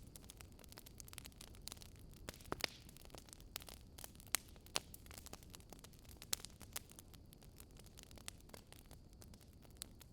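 Wood fire crackling: irregular sharp pops and snaps over a soft, steady low hiss, a few louder pops about two to seven seconds in.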